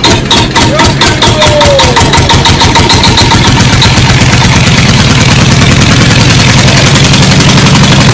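An engine or motor running, its pulsing speeding up over the first few seconds and then holding steady.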